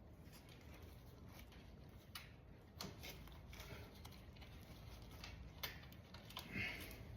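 Faint scattered clicks and light knocks of hand work with small tools and parts on a motorcycle engine.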